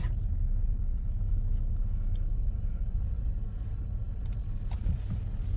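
Steady low rumble of a car, heard from the vehicle the filmer is riding in.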